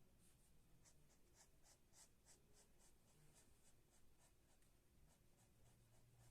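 Faint scratching of a pen or pencil on paper in quick, even back-and-forth strokes, about three or four a second: shading in a drawing.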